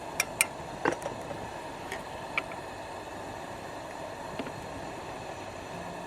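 Wood fire burning scrap lumber: a steady background with irregular sharp crackles and pops, the loudest clustered in the first second.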